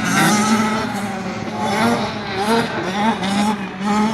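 Small motocross dirt bike engine, its pitch rising and falling several times as the throttle is worked through a turn.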